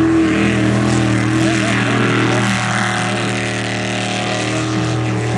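An engine running steadily at one constant pitch, with distant voices of onlookers.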